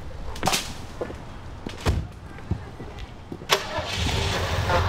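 A few sharp thumps, then a car engine starts about three and a half seconds in and settles into a steady low running rumble.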